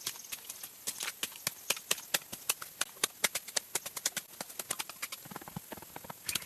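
A rapid, irregular series of sharp clicks and taps, several a second.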